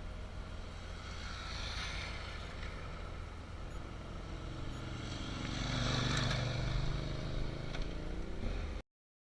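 Motorcycle engine running under a steady low rumble of wind and road noise, its note rising and growing louder around the middle. The sound cuts off suddenly near the end.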